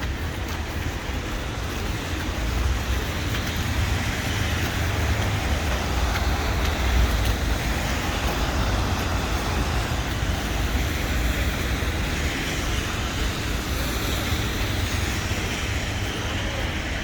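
Steady city traffic noise: road vehicles running past on a street, with a constant low rumble.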